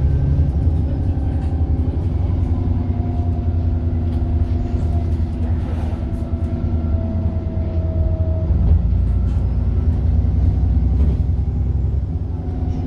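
Bus diesel engine running under way with a low rumble, over which a turbocharger whine rises slowly in pitch, twice.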